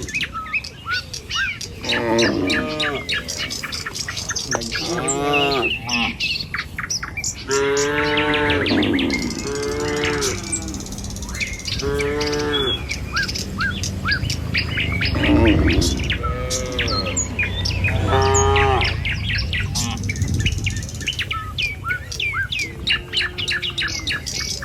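Herd of cattle mooing, about eight long calls spread out and sometimes overlapping, with birds chirping throughout.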